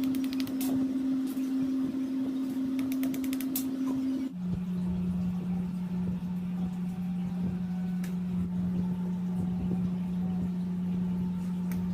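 Small motor of a model RC tractor engine running at a steady speed with a steady hum, dropping abruptly to a lower, steady pitch about four seconds in; a few light clicks early on.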